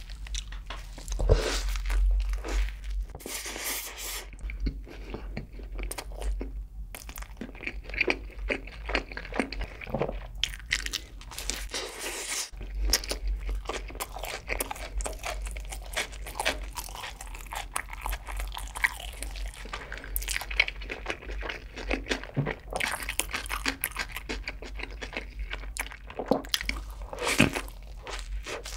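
Close-miked ASMR eating: a person biting into and chewing a double cheeseburger dipped in cheese sauce. There is a loud bite about a second in and another near the end, with steady chewing between.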